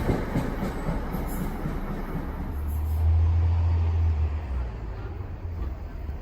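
NJ Transit passenger train running through the station, its rail noise fading away, with a deep low hum that swells about three seconds in and dies down again.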